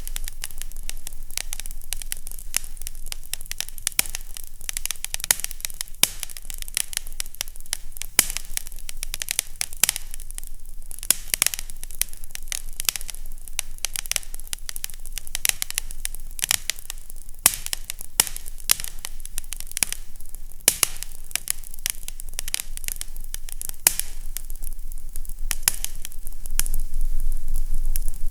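Fire crackling in a fireplace: a dense, irregular run of small snaps and pops over a low, steady hum.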